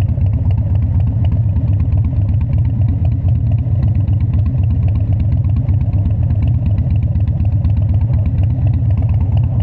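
Harley-Davidson Dyna's air-cooled V-twin engine running steadily at a constant speed, with no revving.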